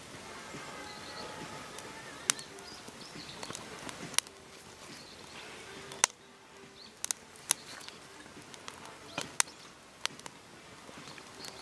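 A series of about eight sharp, irregularly spaced clicks or snaps over a faint steady outdoor background.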